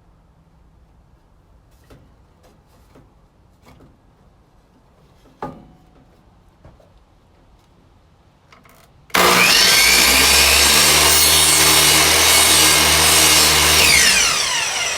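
A few faint knocks and clicks, then about nine seconds in a power miter saw starts suddenly and cuts through a piece of wood for about five seconds. Near the end the blade winds down with a falling whine.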